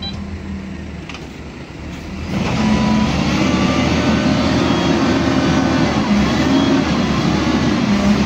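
Heavy diesel dump truck engine running low, then about two seconds in it revs up and keeps running hard, its pitch wavering up and down.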